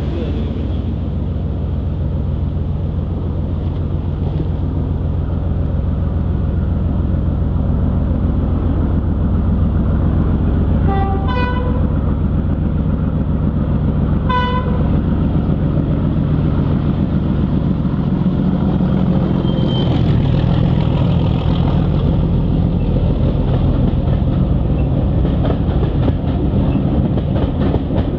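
Steam locomotive running with a steady rumble, sounding its whistle in two short blasts about three seconds apart near the middle.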